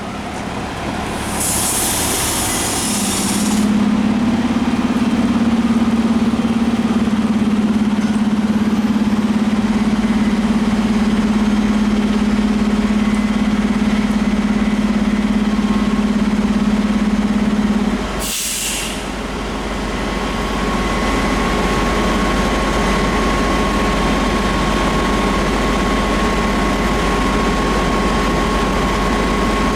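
Fire apparatus diesel engines running at a scene, with two loud air-brake hisses, one about 2 seconds in and one about 18 seconds in. A steady hum runs between the two hisses, and a deeper steady rumble follows the second.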